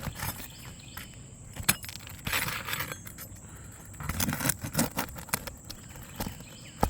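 A steel roofing hatchet and nail puller working under asphalt shingles, prying them up and drawing out roofing nails. Scattered metallic clicks and taps, with a scraping stretch about two and a half seconds in and a few dull knocks about four seconds in, as loose granules come off the shingles.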